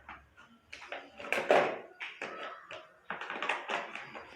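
Tools and objects being handled while someone searches for a hammer: a string of short knocks, taps and clatters, busiest about a second and a half in and again near the end.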